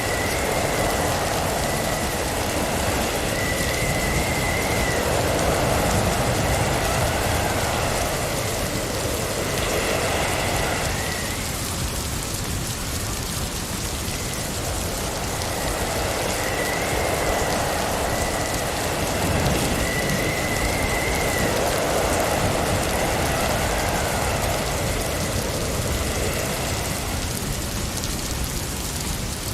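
Snowstorm wind gusting, with a steady hiss of driven snow. The gusts swell and fade about every fifteen seconds, and a wavering high whistle rides on them.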